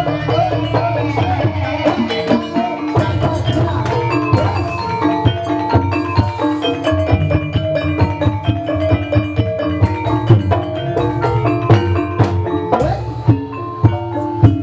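Banyumas gamelan music for an ebeg dance: mallet instruments striking a dense, fast run of ringing notes over kendang drums, with a steady beat.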